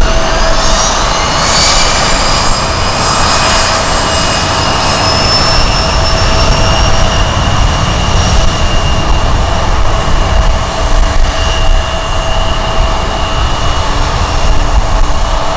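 Jet airliner engines with a loud low rumble and a high whine that rises in pitch over the first couple of seconds, then holds steady.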